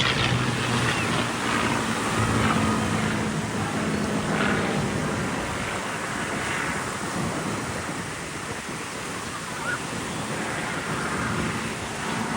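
Steady wind rushing over the microphone, mixed with the wash of ocean surf, with a faint low hum through the first few seconds.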